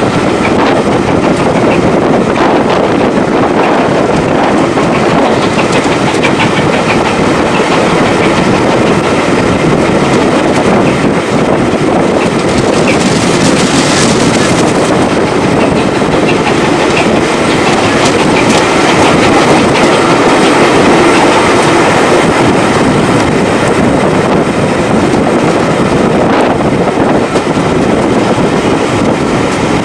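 Railway train running steadily, its wheels clicking over the rail joints with a continuous rumble of the carriages. A brief hiss swells about halfway through.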